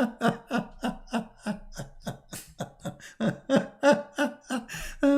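A man laughing in a long run of short, rhythmic bursts, about four a second.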